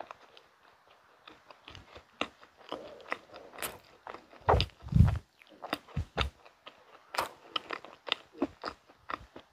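Close-miked chewing of a mouthful of mint-chocolate cake: soft, sticky mouth clicks and crackles at an uneven pace, with a louder, heavier burst about four and a half to five seconds in.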